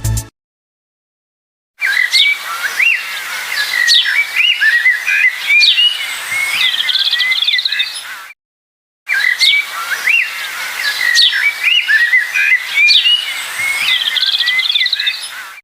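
Small birds chirping and whistling in a rapid run of short, high calls, some sliding up and down in pitch. It comes as two stretches of about seven seconds each with a short break between them, the second much like the first.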